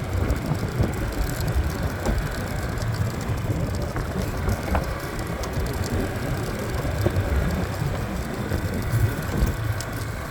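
Motorbike riding off-road: its engine running under a steady, rough rumbling noise.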